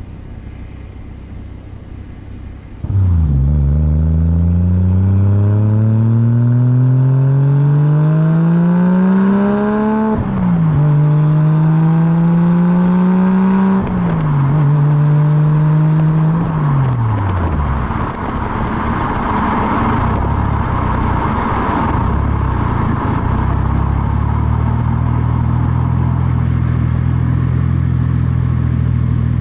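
Toyota Chaser JZX100's straight-six breathing through a new Fujitsubo Legalis R 3-inch exhaust with two mufflers and a resonator, as the car pulls away. The note starts about three seconds in and rises steadily, with two sudden drops in pitch like upshifts about 10 and 14 seconds in. It holds briefly, falls away as the throttle is released, and gives way to a rushing noise and then a steady low drone at cruise.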